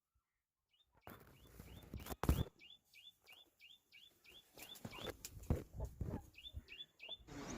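A small bird chirping over and over in short high notes, about two a second, pausing and then chirping again near the end, with a few sharp knocks among the chirps.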